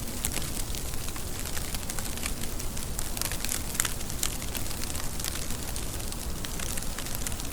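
Steady rain: a dense, even hiss with many separate drops landing as sharp clicks throughout.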